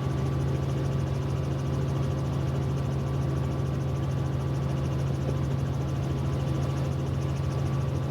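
Helicopter engine and rotor drone, a steady low hum with a constant whine above it.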